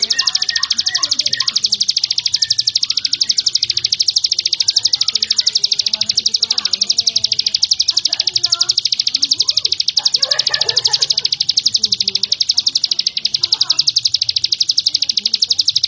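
Prinia (prenjak) song: a fast, unbroken, high-pitched trill of rapidly repeated notes, with fainter lower chirps beneath.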